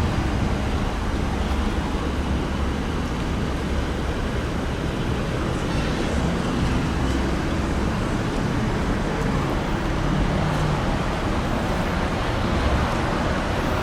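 Steady traffic noise: a continuous low rumble of road vehicles with a constant hiss of road noise.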